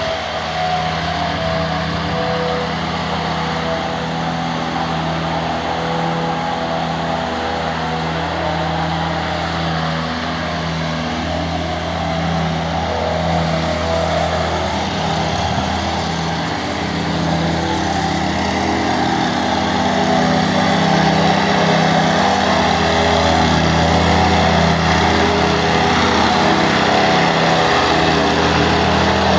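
An engine running steadily, getting somewhat louder about twenty seconds in.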